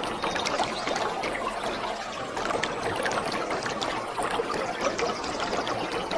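Waterfall water pouring and splashing steadily, busy with many small splashes and no let-up.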